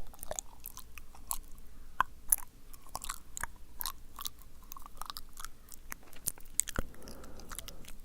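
A man's close-miked wet mouth sounds: irregular sticky clicks and smacks of tongue and lips, several a second.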